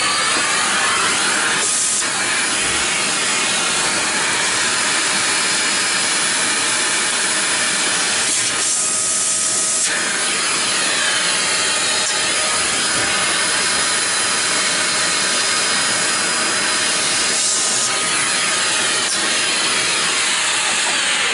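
A power tool's electric motor running steadily with a loud hiss. Its sound changes briefly around two, nine and seventeen seconds in.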